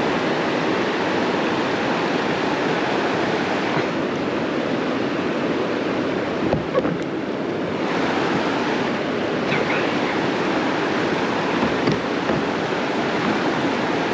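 Steady rush of creek water running over rapids.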